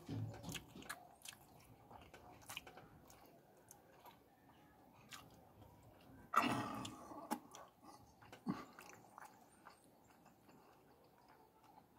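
Chewing and wet mouth clicks of a person eating pieces of fish in curry sauce, with a louder mouth noise about six seconds in.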